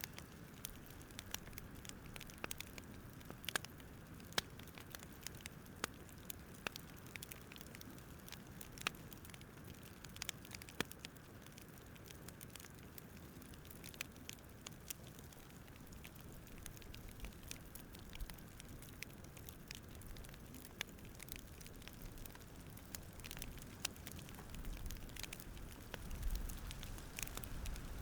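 Campfire crackling: irregular sharp snaps and pops over a low, steady rush that grows a little louder near the end.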